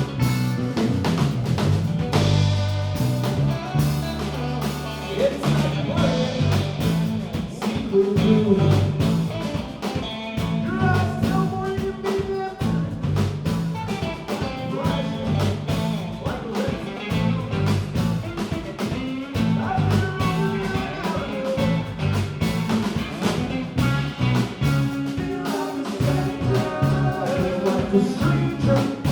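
Live band playing a song: guitar lines over a bass line and drum kit.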